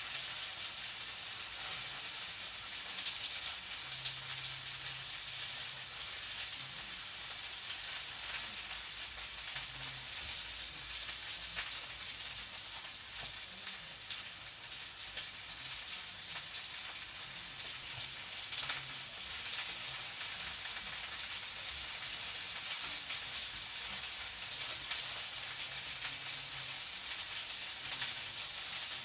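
Food frying in a pan: a steady sizzle with fine crackling.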